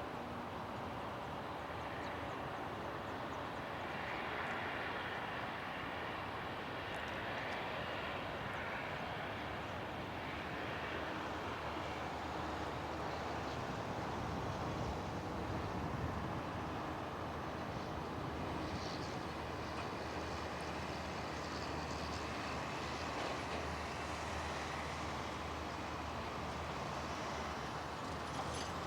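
Steady drone of the turboprop engines of a departing De Havilland Canada Dash 8 Q400 airliner.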